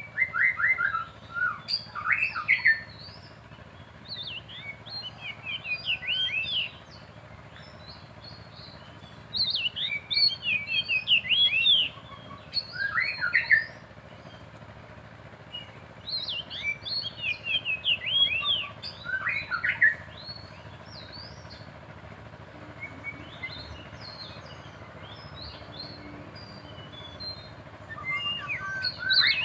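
Oriental magpie-robin and white-rumped shama singing against each other: bouts of rapid, varied whistled phrases, a few seconds each, separated by short pauses.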